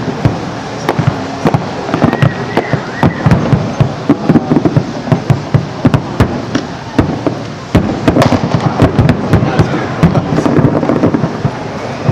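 Aerial fireworks display going off in a rapid, continuous barrage of bangs and crackles, many shells bursting close together.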